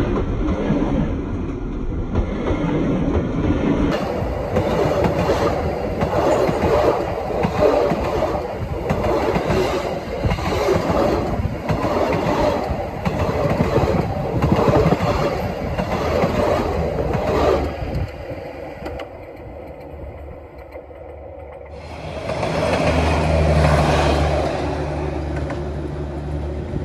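Railway carriages rolling directly overhead: wheels rumbling on the rails with a regular clatter about once a second as bogies pass over the rail joints. The noise dips briefly, then swells again with a steady low hum near the end.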